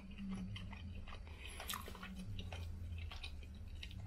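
A person chewing a mouthful of oven-baked jerk chicken close to the microphone, with irregular small wet mouth clicks. A low steady hum runs underneath.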